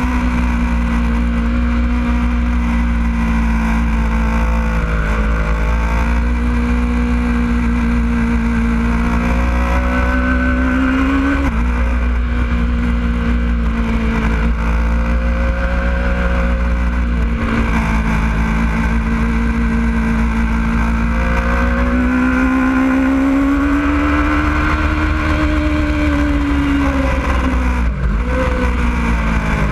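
Racing sport bike's engine running at high revs under load, with a steady low wind rumble on the onboard microphone. Its pitch dips briefly about 12 and 17 seconds in, climbs again, then falls sharply near the end as the rider shifts down.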